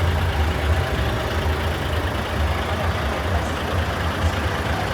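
Heavy truck diesel engine idling with a steady low rumble.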